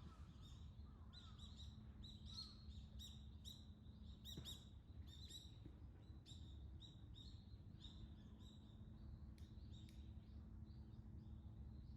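Faint, quick chirping of small birds: short high calls, several a second, over a low steady hum.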